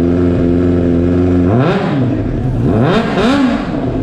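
Kawasaki Ninja H2's supercharged inline-four engine idling steadily, then blipped twice, the pitch rising and falling quickly each time.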